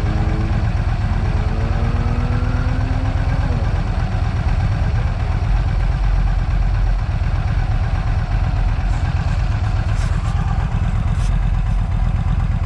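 Vehicle engine running with a heavy low rumble, its tone rising steadily for the first few seconds and then dropping off about three and a half seconds in, as when accelerating through a gear and shifting.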